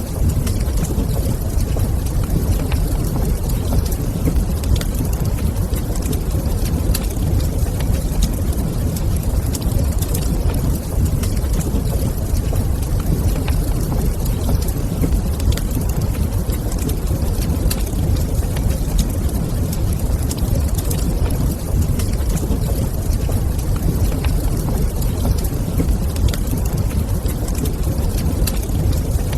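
Wood fire crackling in a fireplace: scattered sharp pops over a steady low rumble.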